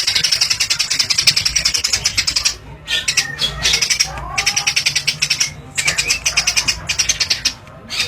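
Small songbird chattering in a fast trill of rapid, high ticking notes, unbroken at first and then in runs separated by short pauses. A brief, fainter, lower curving call sounds about four seconds in.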